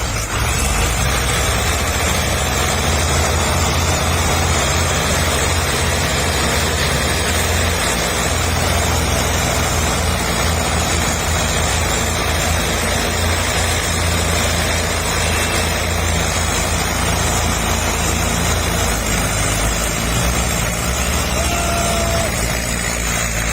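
Tractor diesel engines, several hitched in a line, running hard at high revs while trying to haul a mud-bogged, sugarcane-loaded trolley free. They rev up at the start and then run steadily.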